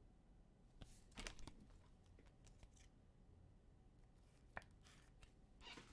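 Faint handling of trading cards and their packaging: a couple of short rustles about a second in, a single click a little after four seconds, and another brief rustle near the end.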